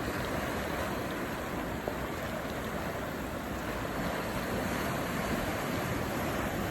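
Stormy sea surf: waves breaking continuously in a steady, even rush of noise, with wind.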